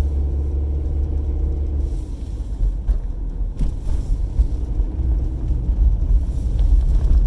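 Steady low rumble of a car heard from inside its cabin, with a faint hum in the first couple of seconds.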